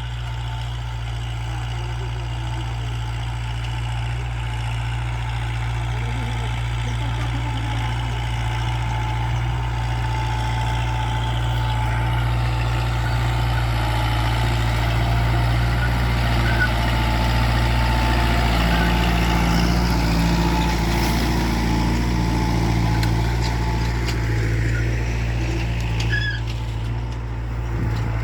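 Kubota tractor's diesel engine running at a steady speed, a constant low drone.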